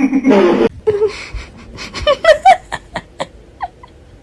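A person laughing: a loud voiced burst at the start, then short breathy bursts of laughter about two seconds in that fade toward the end.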